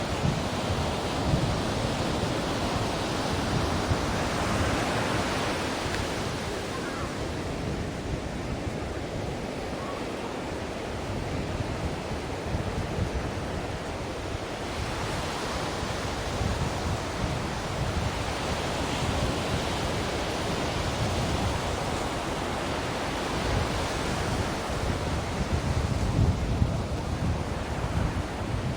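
Ocean surf: waves washing in and out in a continuous hiss and rumble, swelling three times as sets break and then easing back.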